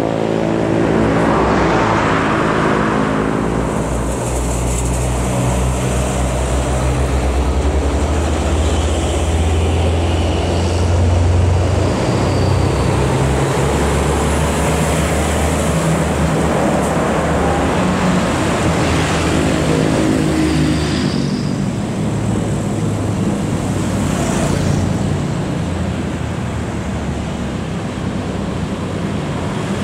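Heavy diesel trucks moving through road traffic: a deep, steady engine drone with other vehicles passing, loudest a little before the middle.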